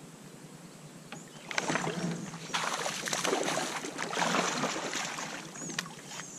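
Water splashing and sloshing around a kayak, irregular and getting louder about a second and a half in, with a couple of short high chirps near the end.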